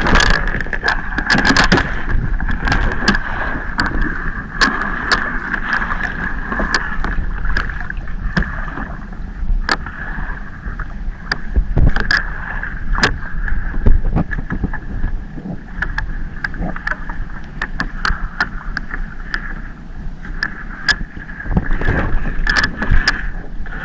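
A small fishing boat's engine running steadily, with a steady whine and low rumble. Many sharp clicks and knocks come over it at irregular moments.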